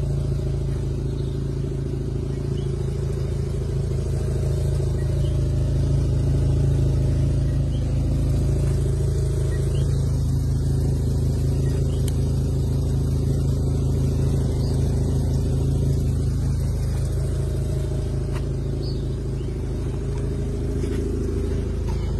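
Mazda RX-7's rotary engine idling steadily.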